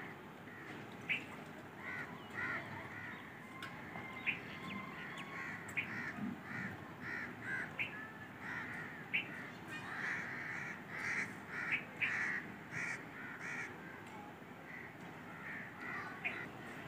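Birds calling over and over in short repeated calls, coming thickest about halfway through, with a few faint clicks.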